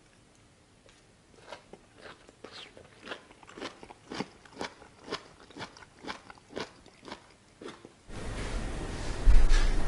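Crisp stir-fried asparagus being bitten and chewed: a run of crunches, about three a second. About eight seconds in, a louder steady hiss with a low rumble takes over.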